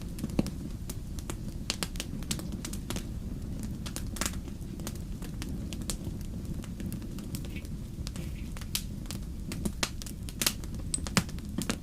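Wood fire crackling in a fireplace: irregular sharp pops and snaps, a few louder ones near the end, over a steady low rumble.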